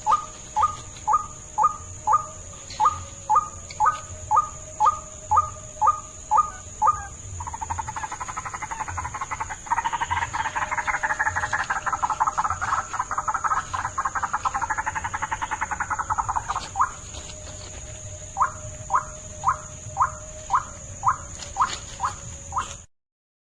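White-breasted waterhen (ruak-ruak) calls played as a lure: a croaking note repeated about twice a second, then a long fast run of pulsed croaks lasting about ten seconds, then the slower repeated notes again. The sound cuts off abruptly near the end.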